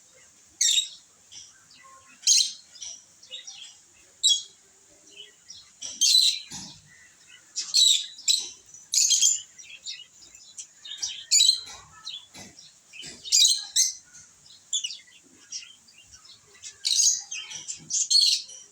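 Pet lovebirds chirping: short, high-pitched calls repeated every second or so.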